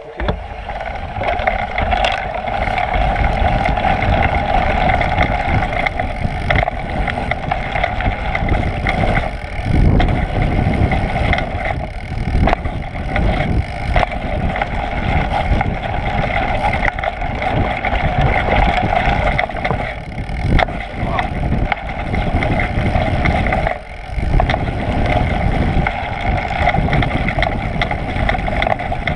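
Dirt bike engine running hard at a fairly steady high pitch, with heavy rumble and wind buffeting on the microphone; the engine briefly drops off once, late on.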